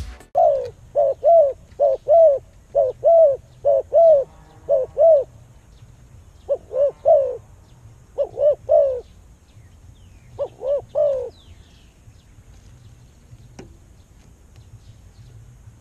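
A bird calling: short arched cooing notes repeated about two to three a second, first in a steady run, then in three short groups of three, before falling silent about eleven seconds in.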